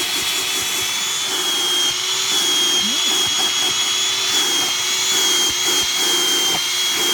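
Black & Decker cordless bagless vacuum running steadily at full speed with a high, even motor whine.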